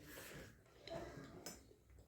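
Close-up eating sounds: chewing and wet mouth noises, with a sharp click about one and a half seconds in.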